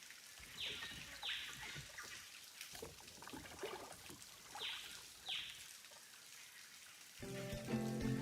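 Water trickling and splashing in small drips, with a bird giving two pairs of quick falling calls. Background music comes in near the end.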